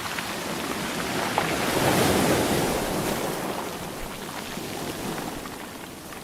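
Sea waves breaking and washing on a shore: a wave swells to its loudest about two seconds in, then recedes.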